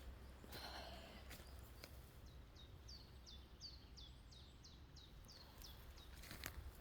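A bird calling: a run of about fourteen short, high notes, each falling in pitch, repeated about three times a second, with a few faint clicks around it.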